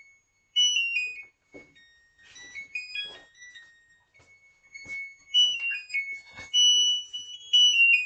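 Washing machine's electronic signal: beeping tones that step up and down in pitch like a short tune, with clicks in between, and no spin noise, the cycle having stopped.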